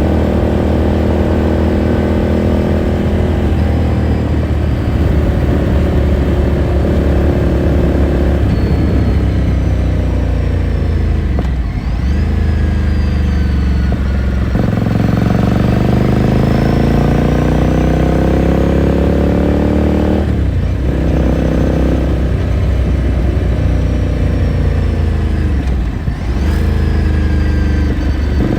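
Onboard sound of a 2018 Ducati Scrambler Sixty2's 399 cc air-cooled L-twin on the move, its exhaust note rising and falling with the throttle. The revs climb steadily through the middle and dip briefly three times, about twelve, twenty and twenty-six seconds in.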